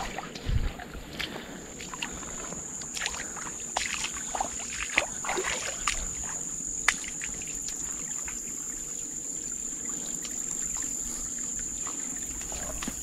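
Creek water sloshing and splashing as someone wades across, with irregular splashes in the first half that settle into a steadier wash. A steady high-pitched buzz runs underneath.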